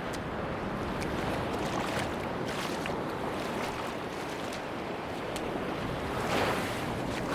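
Sea waves washing onto a beach, a steady wash that swells about six seconds in and eases off, with scattered small sharp crackles through it.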